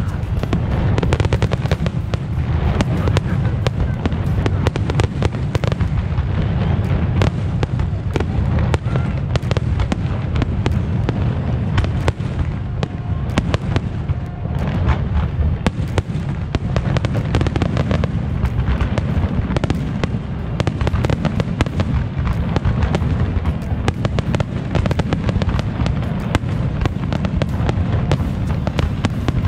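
Aerial fireworks display: many shells bursting in a rapid, unbroken barrage of overlapping booms and crackles, with a heavy low rumble throughout.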